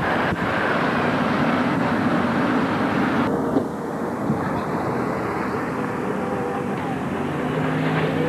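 Steady rush of road and wind noise from a moving car, easing slightly about three and a half seconds in.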